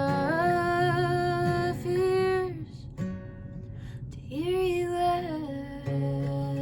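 Acoustic guitar accompanying a woman's wordless singing: two long held notes, each sliding up into pitch, the first running to about two and a half seconds in and the second coming about halfway through.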